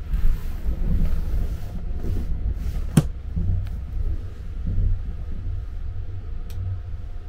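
Steady low rumble of the Sunrise Izumo sleeper train (a 285 series electric multiple unit) running, heard inside a sleeping compartment. A sharp click comes about three seconds in and a fainter one near the end.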